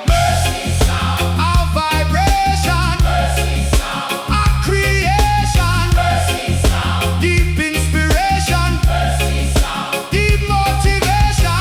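Roots reggae music: a heavy, steady bass line and drums under a lead melody line, with no lyrics sung.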